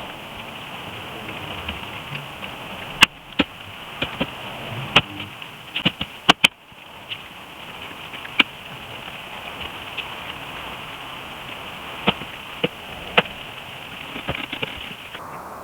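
Scattered sharp clicks and knocks, about a dozen at irregular intervals and bunched together around the middle, over a steady high hiss that cuts off shortly before the end.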